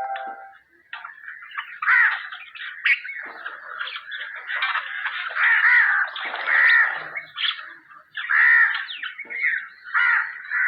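Hungry nightingales giving harsh, raspy begging calls, repeated about once a second.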